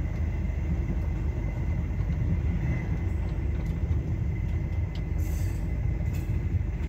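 Sleeper train carriage running along the track, heard from inside the compartment: a steady low rumble with a few faint clicks.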